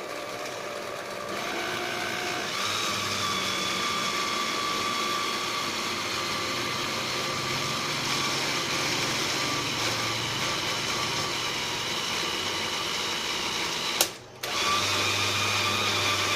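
Countertop blender motor running steadily, puréeing sautéed chicken, mushrooms and potatoes for a soup. It is a constant whine that steps up in loudness a second or two in, cuts out briefly near the end, then starts again.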